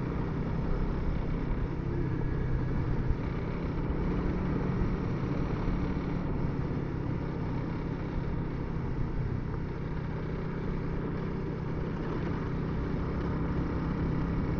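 Honda CRF300L single-cylinder dual-sport motorcycle engine running steadily under way, with wind and road noise, heard through a Sena Bluetooth helmet intercom microphone.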